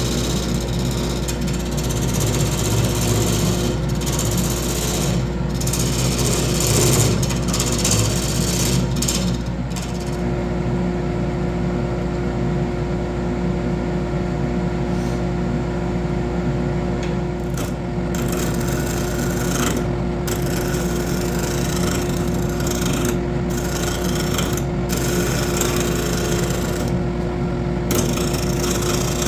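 Wood lathe running with a tool cutting into spinning wood: a steady motor hum under a rough, rattling cutting sound. The high-pitched part of the cut breaks off again and again, from about ten seconds in.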